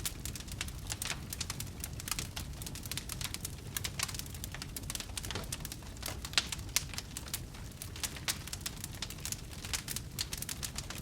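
Wood fire burning in a fireplace: dense, irregular crackling and popping over a steady low rumble.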